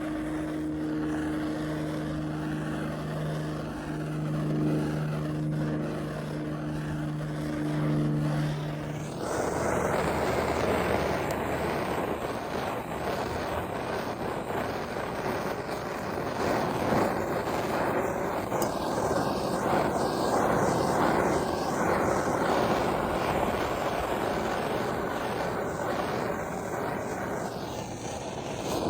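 A steady low hum for about nine seconds, then a propane torch's flame hissing loudly and steadily as it heats the plastic bumper step pad.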